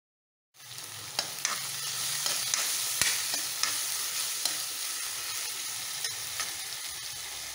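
Sliced onions, green chillies, coconut pieces, ginger and garlic sizzling in hot oil in a black kadai, stirred with a steel ladle that clicks and scrapes against the pan now and then. The sizzle starts about half a second in, after a moment of dead silence.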